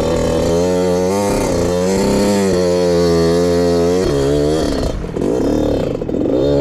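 Small dirt bike engine revving up and down, its pitch rising and falling with the throttle, with a brief drop about five seconds in before it picks up again.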